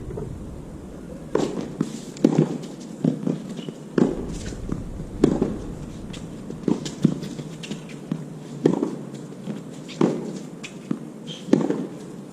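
Tennis rally: sharp pops of the ball being struck by racquets and bouncing on the court, about one a second at an uneven pace.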